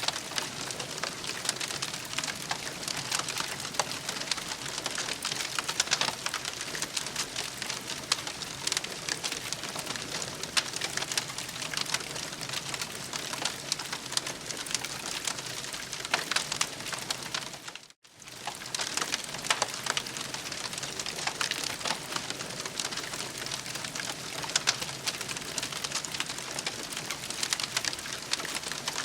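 Campfire crackling steadily, a dense run of small pops and snaps over a soft hiss; it cuts out for a moment a little past halfway.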